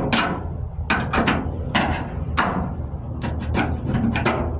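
Hammer striking the rusted sheet metal of a pickup's bed wheel arch, about a dozen sharp, irregularly spaced strikes as weak, rusted metal is found and knocked away.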